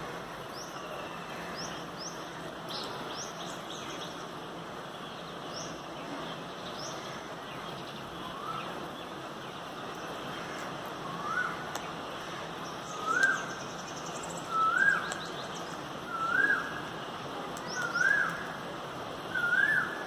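Birds calling: short, high chirps repeating about once a second over the first several seconds. Then, from about eight seconds in, a lower rising call comes seven times at roughly second-and-a-half intervals, getting louder.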